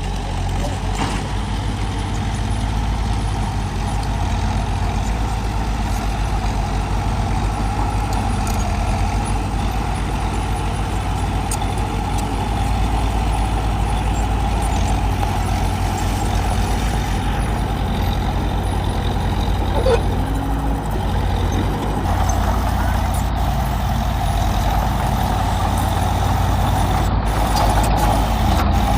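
Heavy diesel earthmoving machinery running steadily under load, with a deep engine rumble and a constant higher mechanical drone that grows a little louder in the last third.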